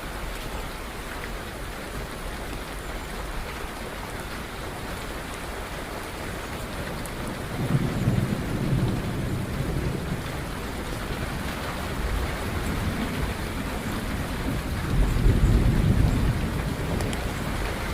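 Steady rain, with thunder rumbling low twice: once about halfway through and again, louder, near the end.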